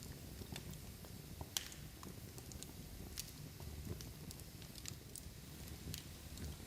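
Large log fire burning, a soft low rumble with scattered sharp crackles and pops from the wood, the loudest pop about one and a half seconds in.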